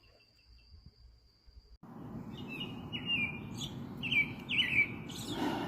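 Near quiet with a faint steady high insect-like trill, then from about two seconds in a bird chirping repeatedly: about half a dozen short chirps that slide downward in pitch, over a steady background hiss.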